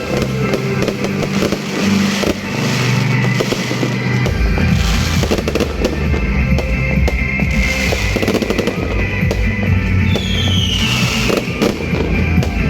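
New Year fireworks bursting and crackling in rapid succession, with a falling whistle about ten seconds in, under steady background music with a heavy bass.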